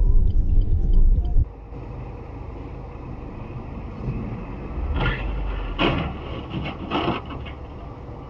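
Vehicle road noise from a dash camera: a heavy low rumble cuts off abruptly about a second and a half in, giving way to quieter traffic noise with a few short noisy bursts near the middle.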